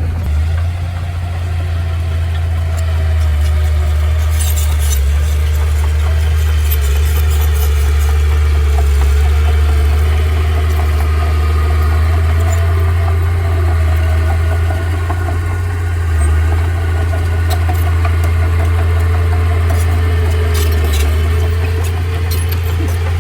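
The engine of a heavy vehicle, such as a bulldozer or truck, running steadily with a low drone, with a few short knocks about five seconds in and again near the end.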